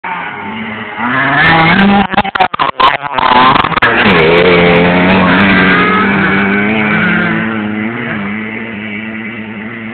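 Dirt bike engine revving up and running hard, with a steady pitched drone; the sound turns choppy for about a second, then holds and fades gradually as the bike moves away.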